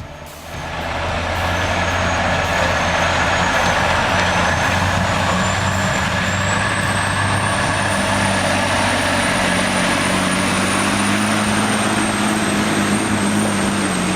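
A heavy truck's turbocharged engine working hard under load, its turbo screaming in a high whistle that climbs in pitch about six seconds in and then holds. The engine swells to full loudness within the first second or so.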